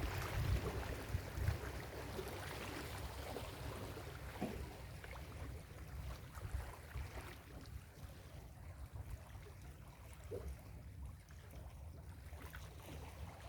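Ocean surf washing on a beach: a wash of water loudest at the start that dies away over the first several seconds, leaving a quieter hiss and low rumble.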